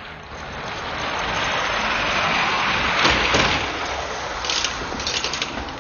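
A motor vehicle engine sound that swells over about three seconds, then eases off, with crackling near the end.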